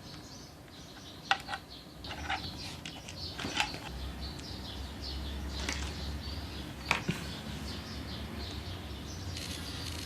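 Several sharp clicks and taps, like plastic printer parts being handled and pried apart, over faint high chirping in the background.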